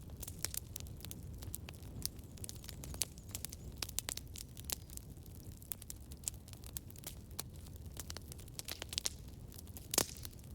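Campfire crackling: a steady low rumble of burning wood with many irregular sharp pops and snaps, and one louder pop near the end.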